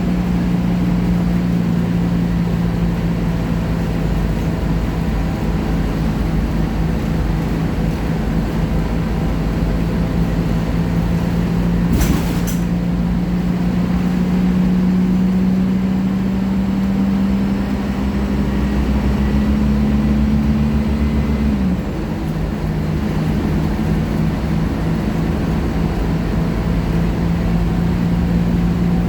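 Scania K310IA articulated bus's diesel engine running under way, its drone climbing slowly in pitch and then dropping sharply about 22 seconds in as the revs fall. A sharp knock comes about 12 seconds in.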